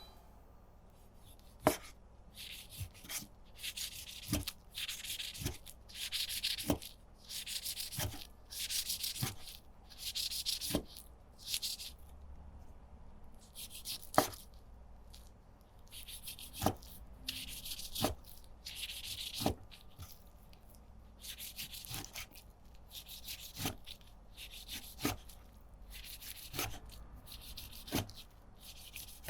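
Food being prepared by hand in a kitchen: repeated short rubbing or scraping strokes, roughly one a second, broken every few seconds by a sharp knock of a utensil on a hard surface.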